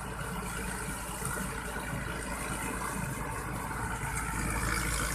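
Rice combine harvester's engine running steadily, a constant low drone with no change in speed.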